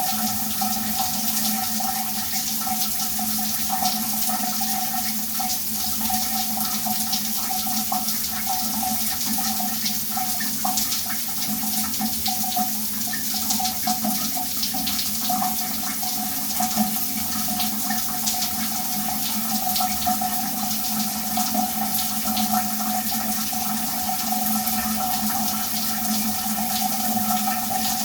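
Shower running steadily, water spraying and splashing in a small tiled room, with a constant hum in the flow.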